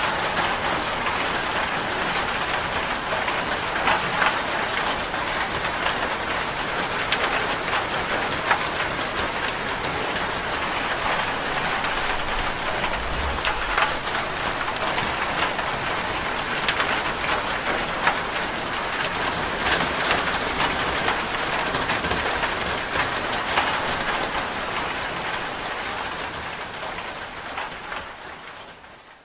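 Steady rain falling on a surface, a dense even patter with scattered sharper drop taps, fading out over the last few seconds.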